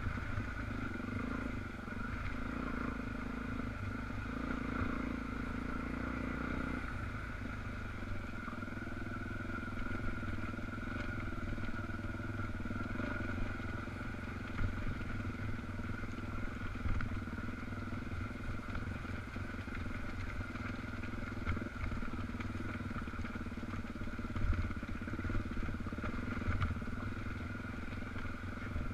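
Dual-sport motorcycle engine running steadily while riding, its note changing about seven seconds in.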